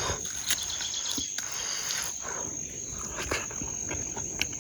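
Insects chirping in a steady high-pitched drone, with a few scattered faint clicks.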